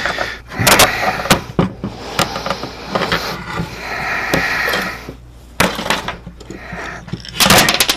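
Handling noise from a 3D-printed plastic helmet being worked on: irregular knocks and clicks mixed with rubbing and scraping as the helmet shifts about, not held down.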